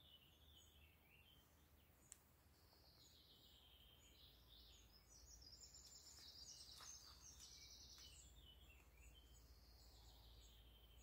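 Faint birdsong in a quiet garden: small birds chirping, with a rapid trill in the middle, over a faint low background hum.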